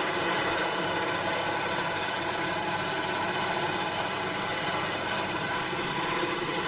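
Engine of a piece of farm machinery running steadily at a constant speed, with no change in pitch or level.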